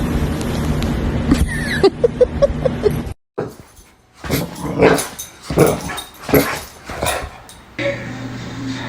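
Boxer dog vocalising in short yips and whines about two seconds in, then a string of short, irregular noisy bursts. The sound jumps at sudden cuts between edited clips.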